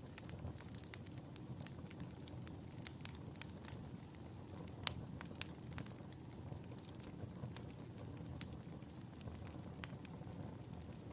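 Wood fire burning in a fireplace: a steady low rumble with irregular crackles and pops, one sharper pop about five seconds in.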